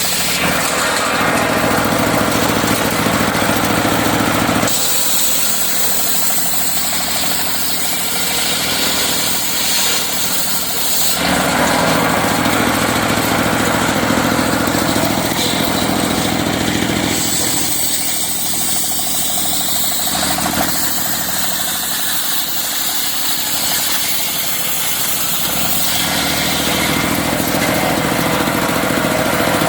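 Engine-driven circular sawmill running continuously while sawing teak, its sound shifting several times as the work goes on.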